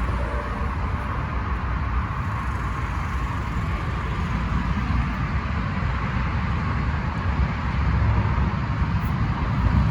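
Ford F-350's 6.7-litre turbo-diesel V8 running steadily, a constant low rumble.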